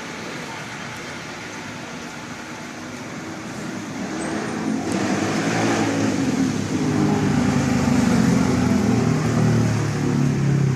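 Street traffic, with a motor vehicle's engine running close by and growing louder over the second half.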